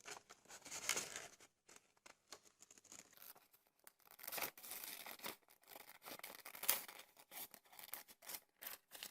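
Scissors cutting out a shape from a sheet of paper: a run of short, irregular snips and paper rustles.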